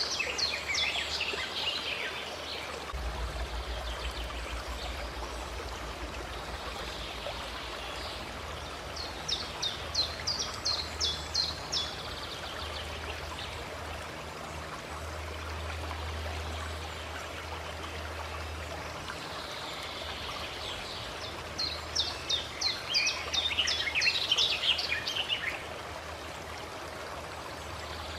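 A stream running steadily, with a songbird singing three phrases of quick repeated high notes: at the start, about ten seconds in, and again near the end.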